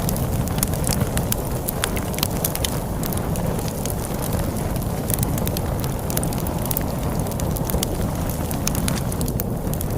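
Wood fire crackling, with frequent sharp, irregular pops over a steady low rumble of wind from a snowstorm.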